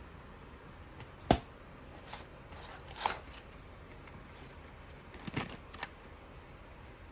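A few sharp clicks and knocks over a low background hiss. The loudest comes about a second in, a small group follows around three seconds, and another group comes past five seconds.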